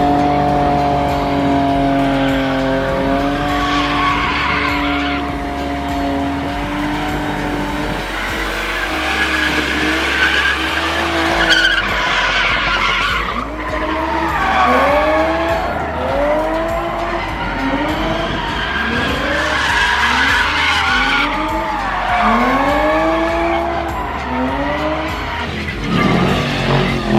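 Cars spinning donuts, with tyres screeching continuously. At first an engine is held at steady high revs; about halfway through its note starts rising and falling roughly once a second as the throttle is blipped through the spins.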